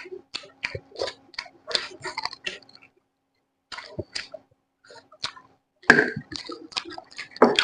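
Close-miked eating: chewing and mouth smacking in quick, irregular clicks, pausing briefly about three seconds in and louder near the end.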